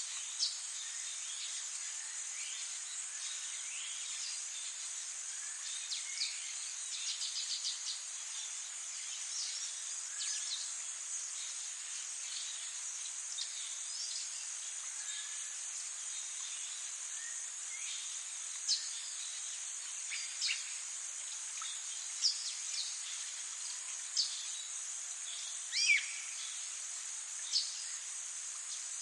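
Wild birds calling and singing, with short chirps and whistles scattered throughout, a rapid trill about seven seconds in, and a few louder single calls near the end, over a steady high-pitched shrill background drone.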